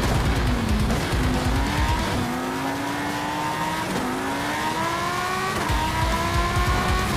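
Car engine accelerating through the gears: its pitch climbs steadily, drops at each upshift and climbs again, with three shifts spaced roughly one and a half to two seconds apart.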